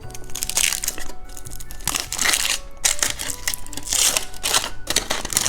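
Plastic candy wrapper crinkling and rustling in uneven bursts as it is handled and opened, over soft background music.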